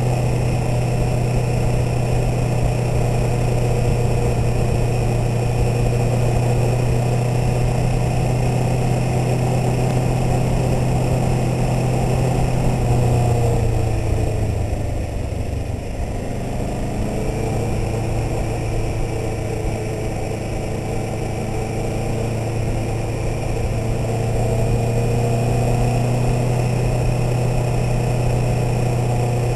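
Kawasaki Ninja 650R parallel-twin engine running through an aftermarket Stealth exhaust, cruising at a steady low speed. Around the middle the engine note drops and quietens briefly, then steadies again.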